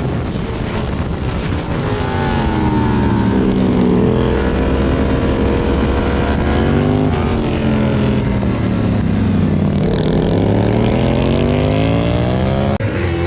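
Superbike engine revving on track: its pitch drops as it slows for a corner, then climbs as it accelerates away, twice over. An abrupt change near the end.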